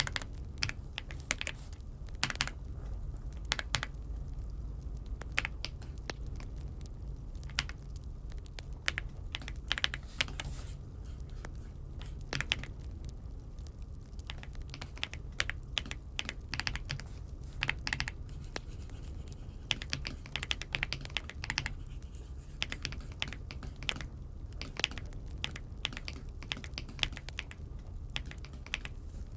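Typing on a Dokgeomi (Aula) F75 mechanical keyboard: irregular runs of key clacks with short pauses between them.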